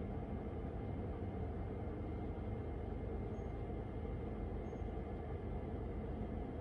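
Steady low background rumble with a faint thin high tone above it, unchanging throughout, with no distinct events.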